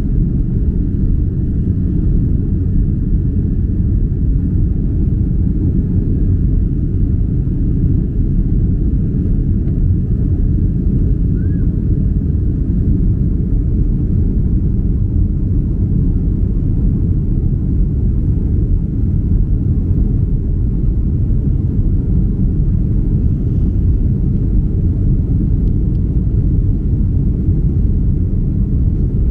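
Steady low rumble of engine and airflow noise inside the economy cabin of a Boeing 767-300 airliner, unchanging throughout.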